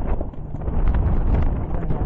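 Wind buffeting the microphone aboard a moving harbor cruise boat: a loud, uneven low rumble.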